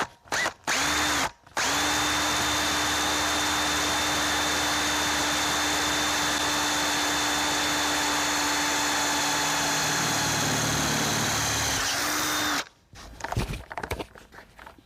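Electric power drill: a few short trigger pulls, then a steady whine at constant speed for about eleven seconds before it winds down and stops. Light handling and scraping sounds follow.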